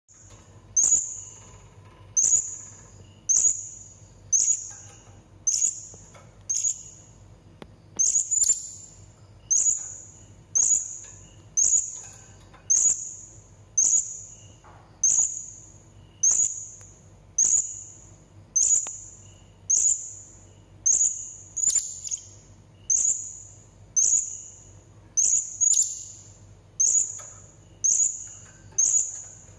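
Blue-crowned hanging parrot (serindit) calling: a single sharp, very high-pitched note repeated steadily about once a second, each note fading quickly.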